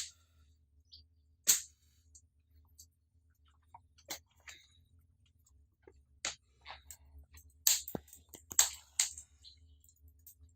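Wood fire burning in a brick fireplace, crackling with irregular sharp pops a second or two apart over a faint low rumble.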